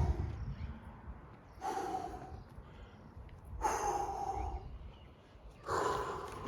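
A man breathing out hard with a voiced grunt three times, about two seconds apart: effortful exhalations from exercise repetitions.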